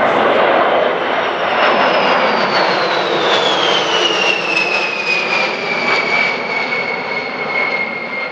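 A B-52 Stratofortress's eight turbofan jet engines roar loudly as the bomber flies past. A high whine falls steadily in pitch over several seconds as the aircraft passes and moves away, then levels off.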